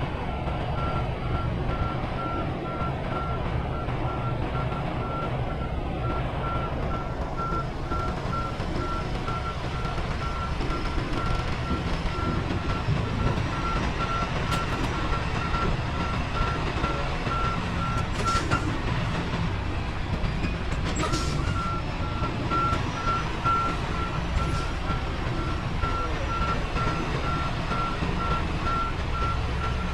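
Semi-truck reversing alarm beeping rapidly and steadily at one pitch over the diesel engine running as the truck backs up, the beeping pausing for a few seconds about two-thirds of the way through. A few short sharp sounds break in now and then.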